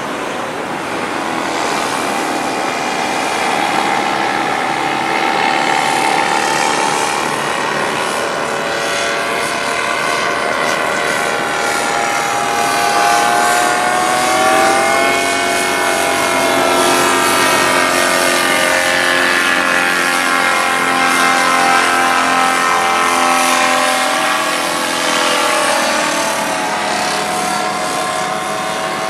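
Radio-controlled model aircraft's motor and propeller running in flight, a steady buzz whose pitch slides up and down as it throttles and passes.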